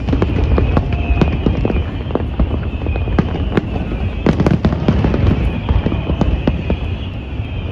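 Fireworks display going off continuously: many sharp cracks and bangs in quick succession over a steady low rumble of bursts.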